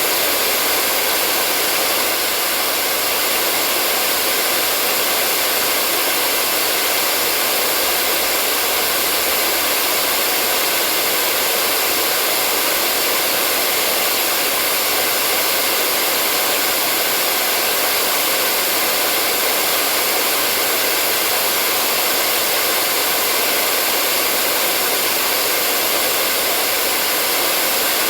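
Hair dryer blowing steadily: a constant airy rush of fan and motor noise, with no change in speed or level.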